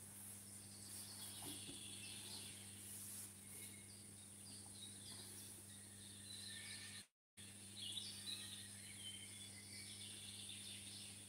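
Faint, scattered chirps of small birds over a steady low hum and hiss. The sound drops out completely for a moment about seven seconds in.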